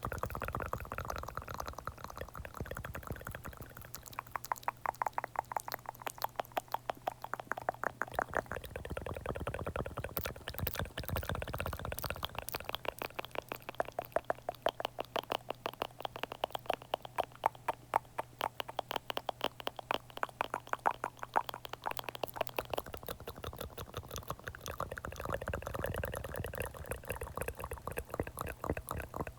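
Close-miked ASMR mouth sounds: a rapid, continuous run of small wet clicks and smacks.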